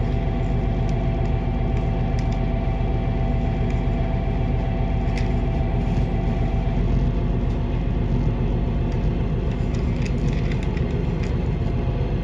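Train heard from inside the carriage: a steady low rumble of the running gear and engine, with a steady higher tone that stops about seven seconds in, and a few light clicks.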